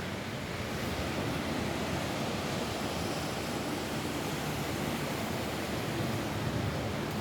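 Rain falling steadily on a roof: an even, unbroken hiss with no single drops or knocks standing out.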